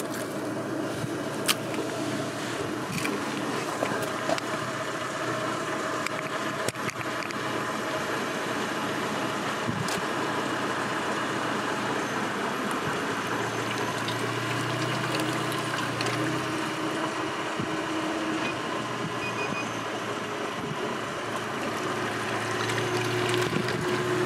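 A car running steadily at idle close by, with a low hum that swells in the second half. A few small clicks and taps sound in the first seven seconds.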